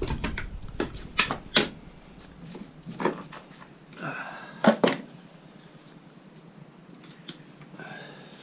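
Scattered knocks and clatter of scrap metal pieces being handled and sorted, about eight separate hits, the loudest around five seconds in.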